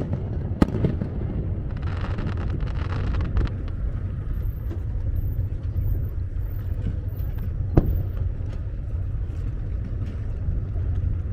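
Fireworks going off: two sharp bangs, one just under a second in and one about eight seconds in, and a brief crackling hiss about two seconds in, over a steady low rumble.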